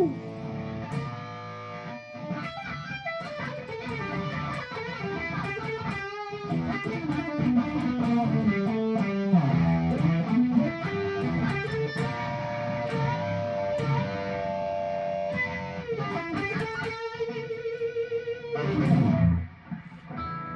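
Firefly Les Paul–style electric guitar with a Seymour Duncan '59 bridge humbucker, played through a RAT distortion pedal: a run of lead lines and riffs, ending on a held note that slides down in pitch near the end.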